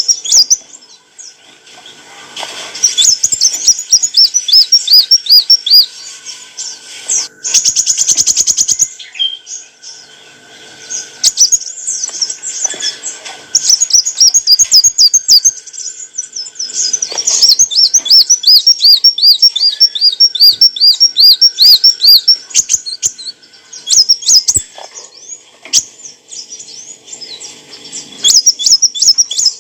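Sunbird (the 'kolibri wulung' of Indonesian bird-keepers) singing: high, fast, repeated chirping phrases and long runs of quick hooked notes, with short pauses between phrases and a brief dense rattle about eight seconds in.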